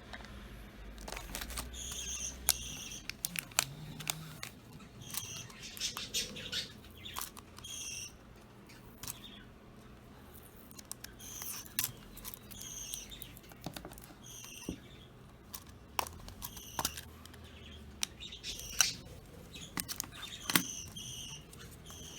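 Budgerigars chirping in many short calls, mixed with frequent sharp clicks and clinks as they play with a toy chain.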